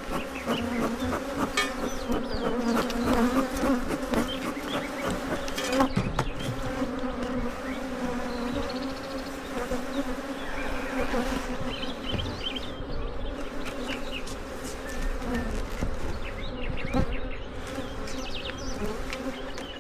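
Honeybees buzzing densely around an opened hive, a steady, many-voiced hum; the colony is agitated and defensive. A few sharp knocks stand out, about six seconds in and near the end.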